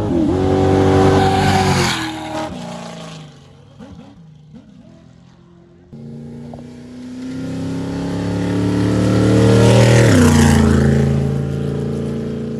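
Off-road race vehicles passing at speed, two pass-bys. Each engine note rises in level and then drops in pitch as the vehicle goes by: the first right at the start, fading out by about three seconds; the second loudest about ten seconds in.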